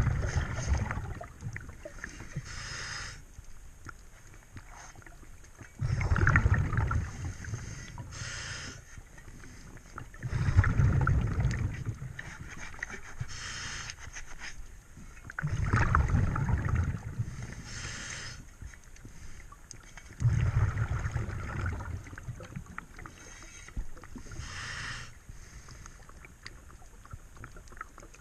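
Diver breathing underwater through a regulator: a short hiss on each inhale, then a loud bubbling rumble on each exhale as the bubbles vent, about one breath every five seconds.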